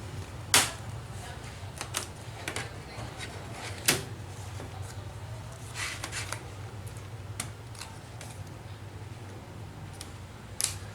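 Plastic clicks and snaps as the keyboard's latch notches are prised loose from a Dell Inspiron 15 3000's top case, with two sharper snaps and scattered lighter clicks and scraping, over a steady low hum.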